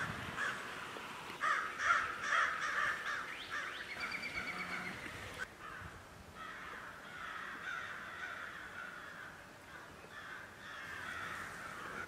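Several birds calling over one another, busiest in the first few seconds, with a short trill about four seconds in.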